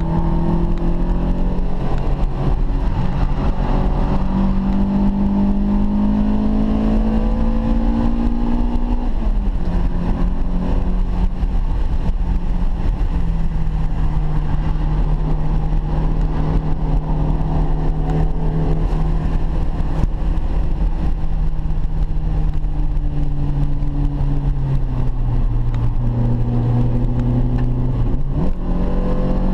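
BMW E30 M3's S14 four-cylinder engine, heard from inside the cabin, working hard on track. The revs climb for about nine seconds, then drop suddenly. They hold fairly steady and sag lower, then rise sharply again near the end.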